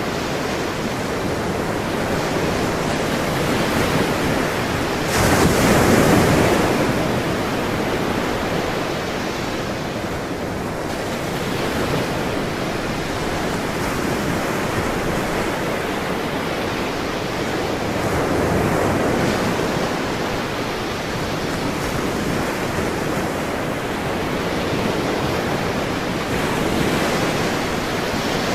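Ocean surf: waves washing onto a shore in slow swells, the loudest wave breaking about five seconds in.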